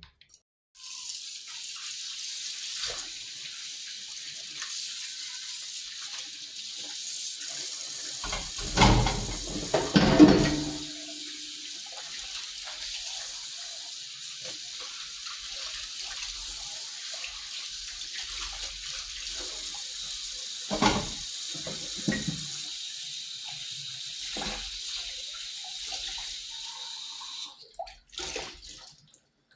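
Kitchen tap running into a sink in a steady hiss, with a few knocks and clatters of things handled in it around a third of the way in and again past two thirds. The water cuts off shortly before the end.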